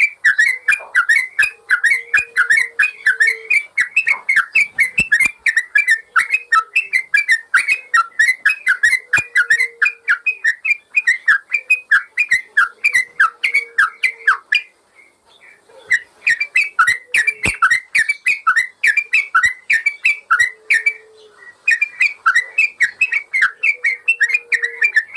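Yellow-vented bulbul (trucukan) singing a fast, continuous run of short bubbling whistled notes, several a second. The song breaks off briefly twice, about fifteen and twenty-one seconds in.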